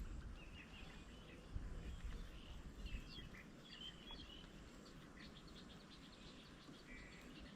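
Faint outdoor birdsong: scattered short chirps and calls from small birds over a low background rumble.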